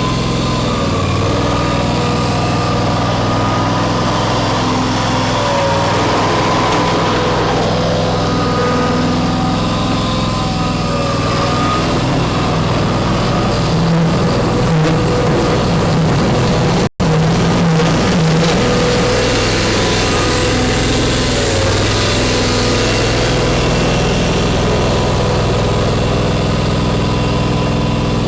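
John Deere X585 garden tractor's engine running steadily, its pitch dipping and rising slightly now and then. The sound cuts out for an instant about seventeen seconds in.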